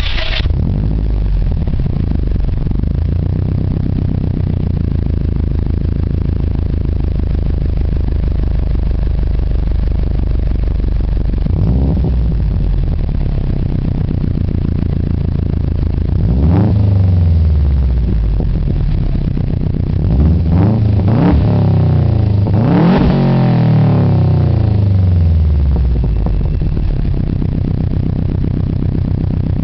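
2005 Subaru Legacy 2.5GT's turbocharged EJ255 flat-four through a catless X02 racing exhaust, catching right at the start and settling into a steady idle. Past the middle it is revved several times in quick blips, each rising and falling back to idle.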